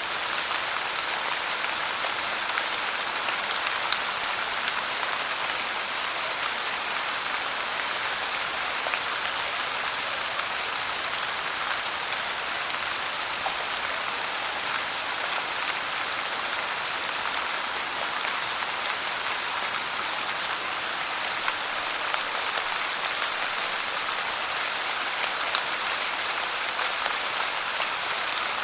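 Steady rain falling as an even hiss, with scattered individual drops ticking through it.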